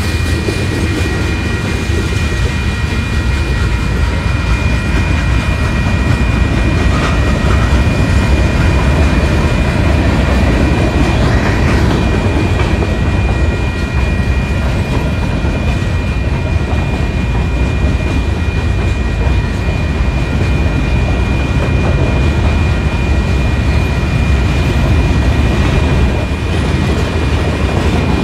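Freight train cars (covered hoppers and boxcars) rolling past close by: a steady, loud rumble of steel wheels on the rails, with a thin steady high-pitched tone over it throughout.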